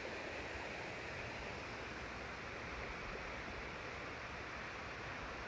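River water flowing steadily, an even, unbroken rush of water noise.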